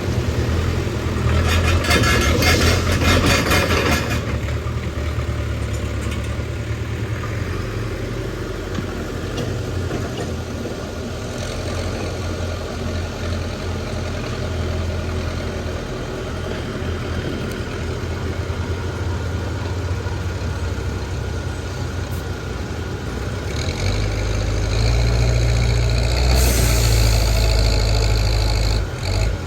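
Backhoe loader's diesel engine running steadily, with a stretch of rough rattling noise over it in the first four seconds. About 24 seconds in, the engine revs up under load and stays louder until just before the end.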